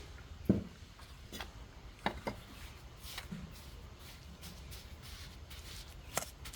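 Scattered knocks and taps from hand work, irregular, with a dull thump about half a second in and a sharper knock near the end.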